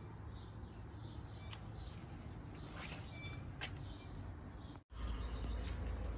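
Small birds chirping over steady low outdoor background noise: a quick run of short, downward-sliding chirps, about two a second, with a few brief high whistled notes. Almost five seconds in, the sound cuts off for an instant and comes back as a louder low rumble.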